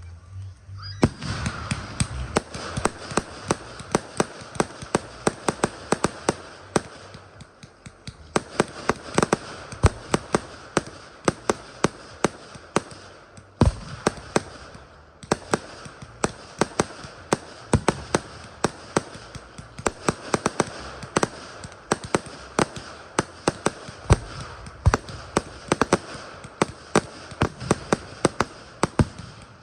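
Fireworks display: a dense, rapid run of sharp bangs and crackles over a steady hiss. It starts about a second in and eases off briefly twice along the way.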